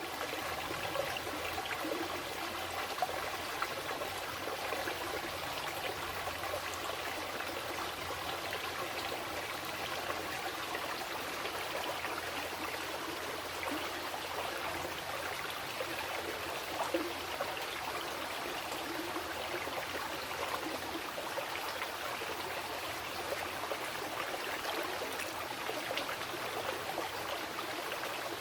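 Fast-flowing mountain river running over rocks, a steady rushing and splashing of water.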